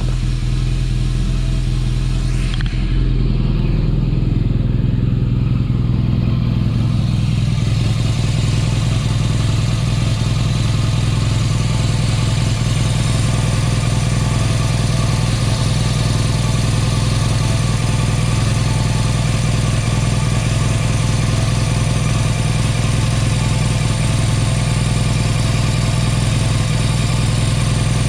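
BMW R nineT's air/oil-cooled boxer twin running at idle. Its note changes about three seconds in, then it idles steadily.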